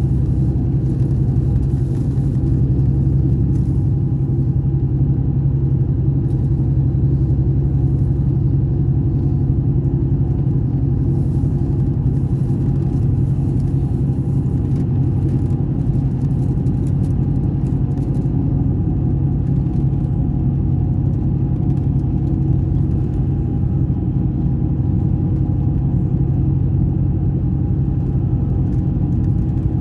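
Scania K420 coach's diesel engine running steadily, an even low drone with no revving.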